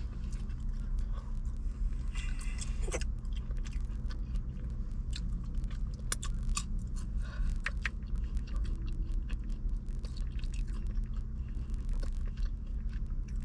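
Close-up chewing and crunching of fried crab fries, with scattered wet clicks and crackles, over a steady low hum in the car cabin.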